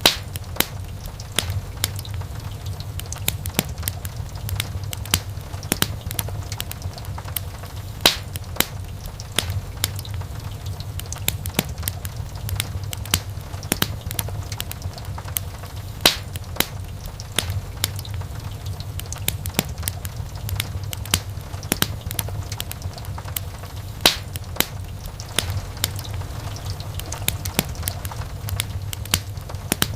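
Wood fire burning in a fireplace: continuous crackling with many sharp pops over a steady low rumble of the flames. The loudest pops come about every eight seconds.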